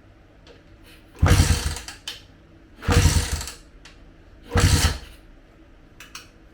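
Three short bursts of a power tool, each under a second long and about a second and a half apart.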